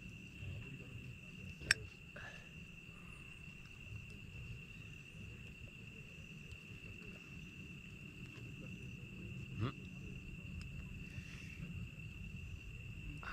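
Insects chirring in one steady high-pitched trill, cricket-like, with a low rumbling background. A wood campfire gives a couple of sharp pops, a loud one about two seconds in and another near ten seconds.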